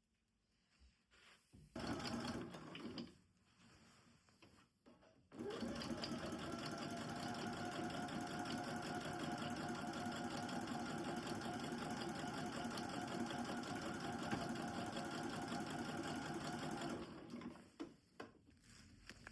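Sewing machine stitching: a short burst of about a second, then a steady run of about twelve seconds that stops shortly before the end.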